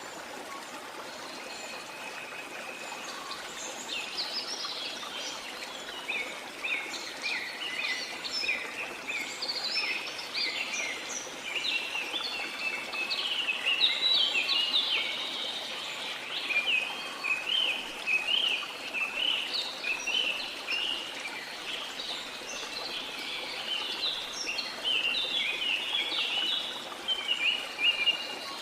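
Small songbirds chirping in a dense, busy chorus of quick, overlapping chirps, sparse at first and thickening a few seconds in, over a steady hiss of sea water.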